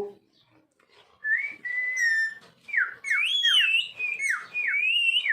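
Ringneck parrot whistling: a short held note, then a run of quick rising and falling whistled swoops.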